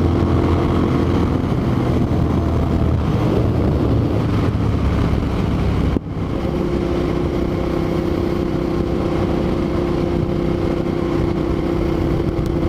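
Motorcycle engine running at cruising speed with wind rushing over the helmet microphone. About halfway through the sound drops briefly, then the engine holds a steady, slightly higher pitch.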